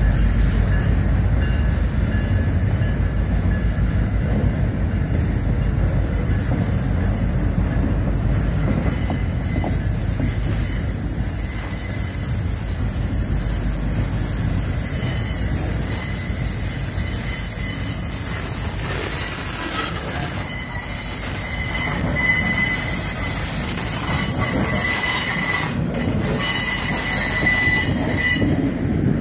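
Loaded freight flatcars rolling past: a steady low rumble of steel wheels on rail, with thin high wheel squeals coming and going, more of them in the second half.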